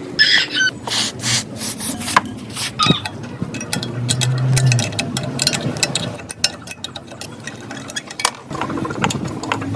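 Hand-tool work on metal parts: irregular scraping and rubbing strokes with sharp clicks and knocks, and a short squeak near the start.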